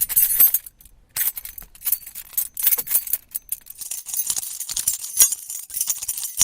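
A dense run of sharp clinks and rattles from small hard objects knocking together, like glass or crockery, with short pauses, most of it bright and high-pitched.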